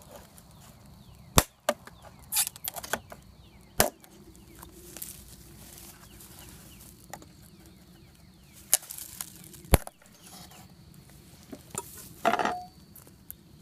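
Sharp wooden knocks and clicks, coming irregularly, from prying up the lid of a wooden bee package to get the sugar-syrup feeder can out.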